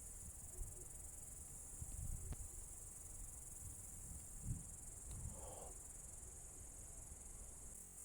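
Night insects chirring steadily in a continuous high-pitched band. Underneath are a faint low rumble and a few soft thumps.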